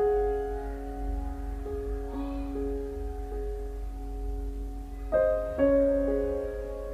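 Soft, slow piano music: held notes changing about once a second, with a new chord struck about five seconds in.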